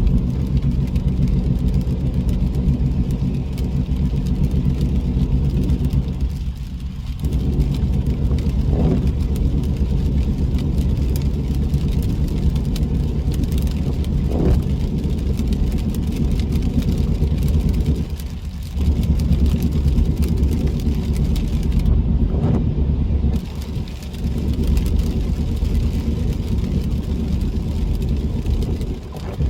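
Car driving along, a steady drone of engine and tyre noise with brief dips in level a few times.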